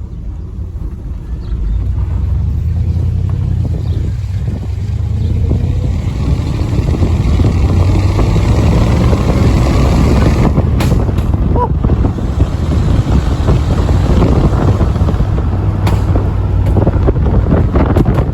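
A 1985 Dodge pickup's 318 small-block V8 accelerating under throttle. It gets louder about two seconds in and again a few seconds later, with wind noise.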